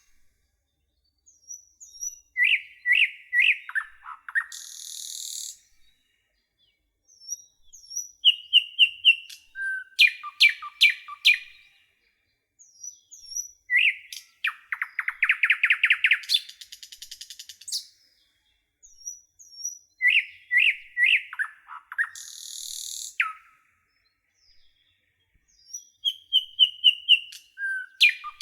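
A songbird singing short phrases of a few seconds, one starting about every six seconds with silence between. Each phrase is made of quick runs of repeated notes, fast trills and a harsh, hissing rattle.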